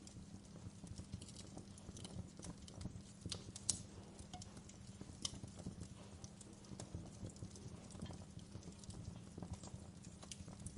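Wood fire crackling in a fireplace: irregular pops and snaps over a steady low rumble, with the sharpest pop a little under four seconds in.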